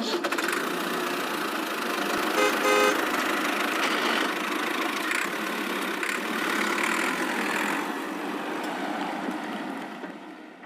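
A steady, noisy small-motor running sound, with a short double toot of a vehicle horn about two and a half seconds in; the running sound fades near the end.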